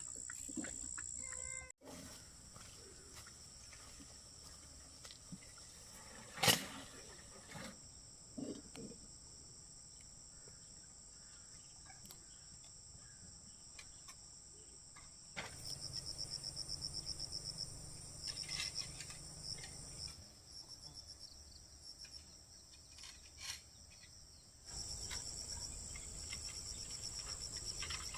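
Insects chirring at a steady high pitch, pulsing rapidly for a few seconds past the middle, with a single sharp knock about six and a half seconds in.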